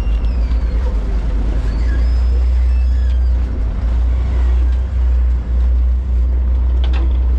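Steady, loud low rumble of a high-speed passenger boat running at speed.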